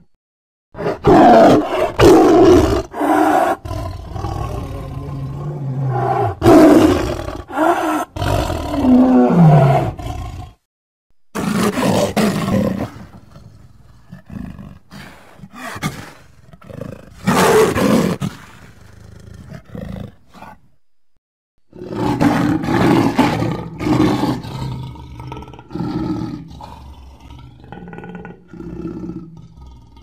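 Big-cat roars and snarls made as sound effects for a sabre-toothed cat (Smilodon), played as a string of separate calls with two short silent breaks between groups. One call just before the first break drops in pitch as it ends.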